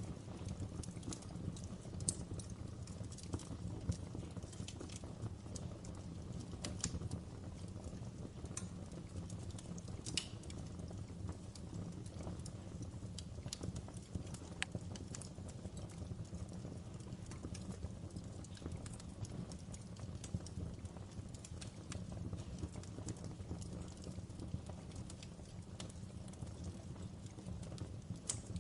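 Wood fire crackling in a fireplace: irregular pops and snaps over a steady low rumble of the flames.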